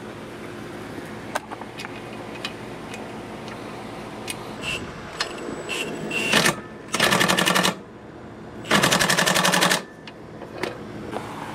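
Impact wrench hammering in two short bursts, one a little under a second and one about a second long, driving nuts home. Before the bursts come scattered light clicks and clinks of tools and parts.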